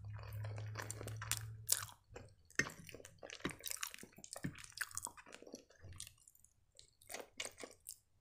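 Close-up chewing of penne pasta in a creamy Alfredo sauce: a run of short, wet mouth clicks and smacks, with a low hum under the first two seconds and a fresh forkful taken near the end.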